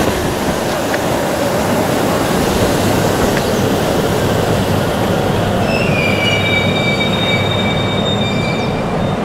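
JR Central 313 series electric train pulling out past the platform, with a steady rumble and rattle of its wheels on the rails. A high wheel squeal joins about six seconds in and keeps on to near the end.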